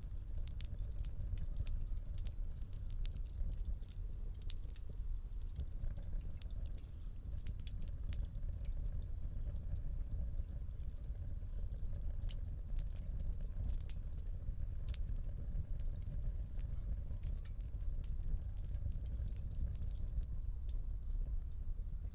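Wood fire crackling in a fireplace: many small, irregular sharp pops and ticks over a low, steady rumble of the flames.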